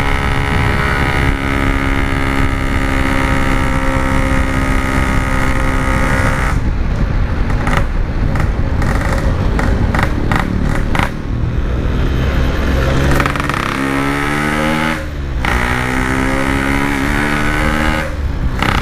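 Yamaha RX-King 135 cc two-stroke single running through a Packing Power standard-style exhaust while being ridden. It holds steady revs for about six seconds, turns rough and choppy as the throttle is worked, rises and falls in pitch about two-thirds of the way through, then settles and drops in revs near the end.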